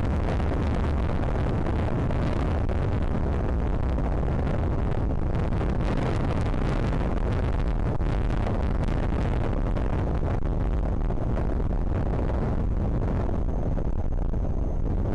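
Strong wind buffeting the microphone: a steady, loud, low rumble with a rushing hiss over it.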